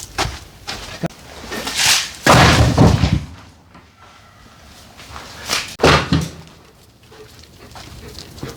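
A series of knocks and thuds: a loud, heavy clattering stretch about two seconds in and another sharp burst near six seconds, with lighter knocks in between.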